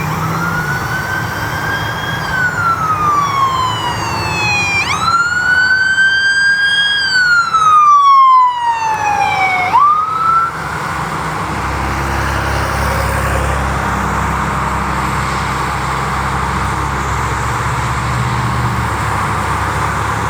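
Emergency vehicle siren wailing, rising and falling in slow sweeps. It cuts off about halfway through, leaving steady vehicle and road noise with a low engine rumble.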